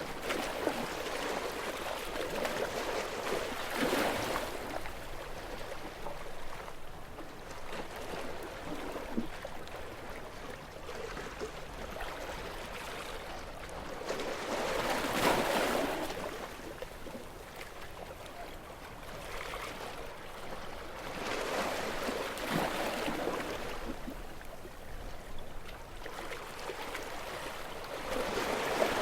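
Gentle sea waves washing onto a shore, the surf swelling and easing in slow surges several seconds apart.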